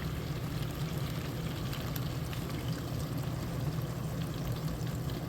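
Samsung DW80M9550UG dishwasher running in wash mode: a steady rush of spraying, pouring water over a low, steady pump hum.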